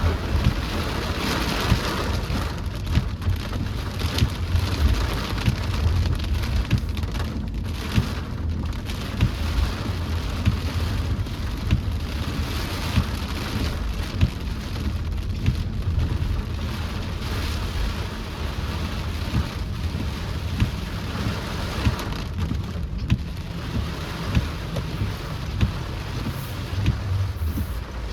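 Heavy rain drumming on a car while driving, with many sharp individual drop hits over a steady low rumble.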